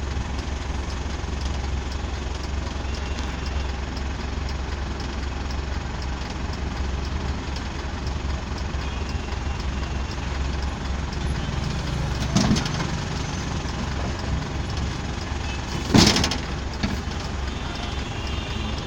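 Heavy truck engine idling steadily, with a short sharp burst about twelve seconds in and a louder one about sixteen seconds in.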